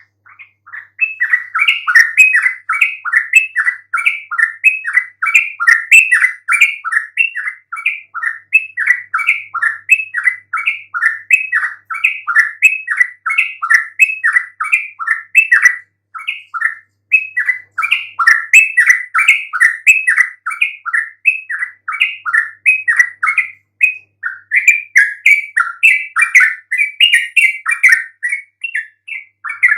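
Yellow-vented bulbul (trucukan) singing a long, unbroken run of quick, bubbly chattering notes, several a second, starting about a second in. This is the loud, full 'gacor' song used to provoke other trucukan into answering.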